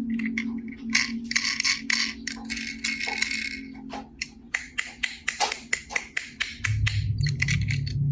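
Small die-cast toy cars and a plastic carry case being handled: quick irregular clicks and rattles of metal and plastic. A low steady tone sits underneath and drops to a lower one about two-thirds of the way through.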